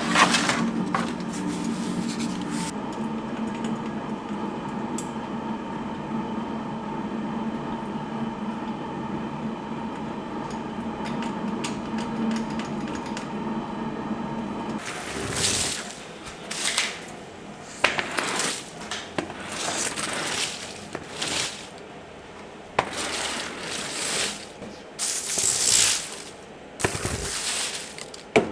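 A steady mechanical hum runs for about fifteen seconds and stops. Then comes a string of irregular metallic clinks, clanks and scrapes, like bolts, panels and hand tools being handled in a workshop.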